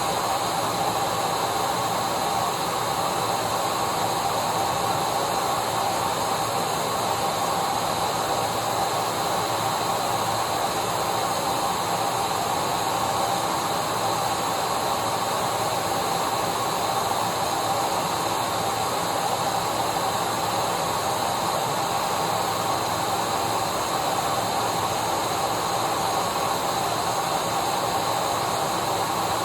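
Vacuum cleaner running steadily: an even rushing hiss with a steady motor whine held at one pitch.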